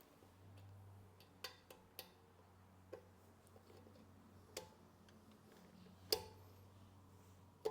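Scattered sharp clicks and taps, about six of them at uneven intervals with the loudest near the end, over a faint steady low hum: tools or small parts being handled during repair work.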